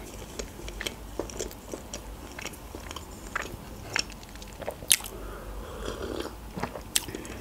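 Close-miked chewing of a soft pancake, with wet mouth clicks and smacks. Near the end comes a sip from a mug of tea.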